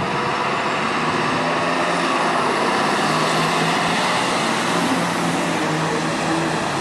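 Fire trucks pulling out and driving off, a steady mix of engine and road noise.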